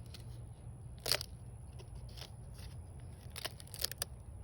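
Dry leaf crackling and crunching in a few short, sharp bursts as it is handled and torn up.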